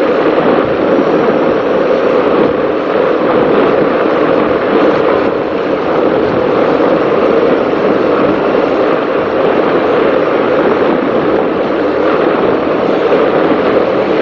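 Offshore racing powerboat running at speed, heard from on board: a loud, steady drone of engine, hull and water noise.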